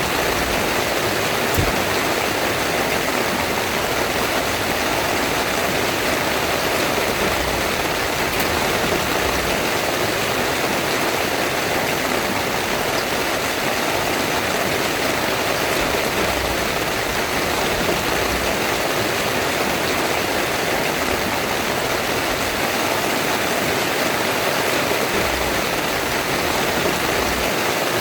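Heavy rain pouring steadily onto a tent, an even unbroken hiss of water.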